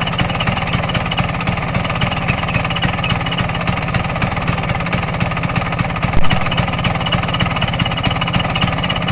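Vespa PX200FL's two-stroke single-cylinder engine idling, with the front shield badge chattering fast and metallic in time with the engine's vibration: the badge's fastening pins are rubbing against their holes in the body. One louder knock about six seconds in.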